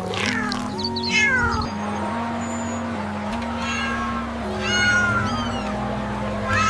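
A cat meowing about four times, each call falling in pitch, over soft background music with held notes.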